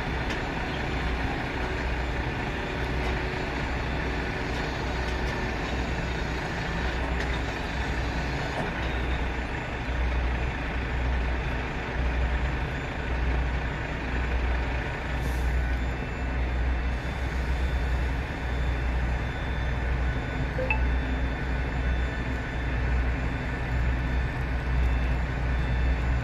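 Airbus A350-900 airliner's jet engines running steadily after landing: a continuous rumble with several steady whining tones through it, swelling slightly toward the end.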